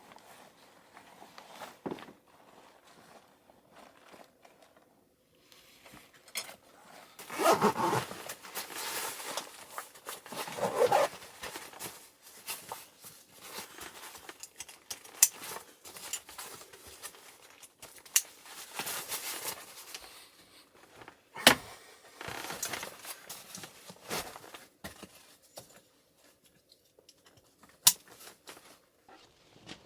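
Intermittent rustling and scraping with sharp clicks and knocks of things being handled in a small enclosed space, in bursts with short pauses between.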